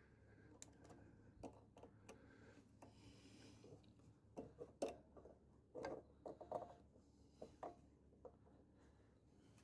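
Faint, scattered clicks and light knocks of hand tools and small parts being handled, busiest between about four and eight seconds in.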